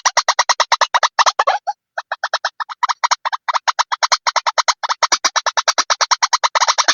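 White-breasted waterhen (ruak-ruak) calling: a fast, even run of short harsh notes, about eight a second, with a brief break about two seconds in.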